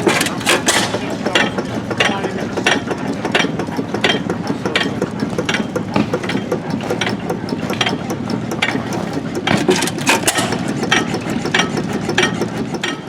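5-horsepower New Holland antique stationary engine running very slowly, its turning mechanism giving a regular click about one and a half times a second, with louder clicks near the start and about ten seconds in.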